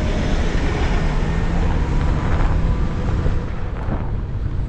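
Steady wind rumble on the microphone and road noise while riding a scooter.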